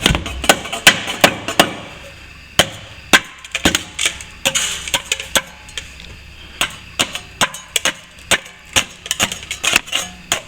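Hand tool chipping and scraping loose plaster and old joint tape out of a cracked ceiling-to-wall corner joint: quick, irregular sharp knocks and scrapes, several a second, with a short lull about halfway through.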